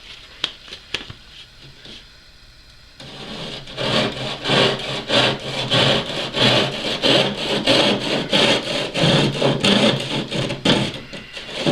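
Hand saw cutting through a model aircraft fuselage's balsa structure with quick, steady back-and-forth strokes, starting about three seconds in after a few light clicks.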